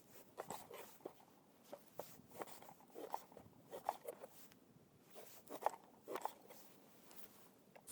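A series of light, irregular knocks and crunches, like hands handling something at close range.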